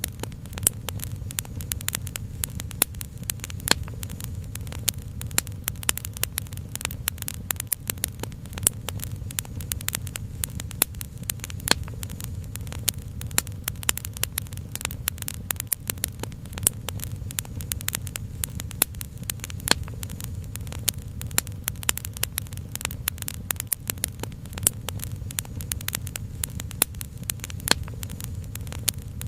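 Wood fire crackling steadily, with many irregular small pops and an occasional louder snap, over a steady low rumble.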